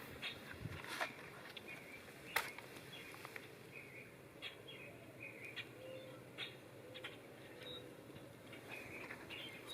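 Campfire crackling with scattered sharp pops, the loudest about two and a half seconds in, with short bird chirps in the background.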